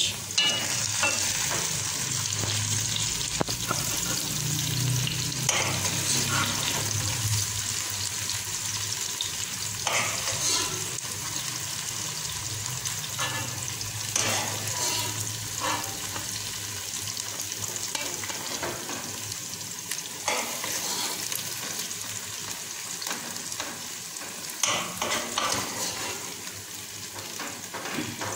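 Eggplant, tomato and green pepper sizzling in a pot on the stove, with a spoon scraping and knocking against the pot every few seconds as the dish is scooped out onto a plate.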